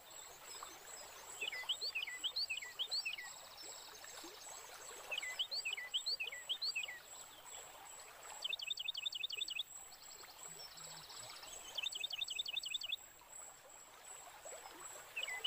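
Wild birds calling: short bouts of quick, repeated high chirping notes every three to four seconds, with a buzzy trill twice. A steady thin high-pitched whine runs underneath.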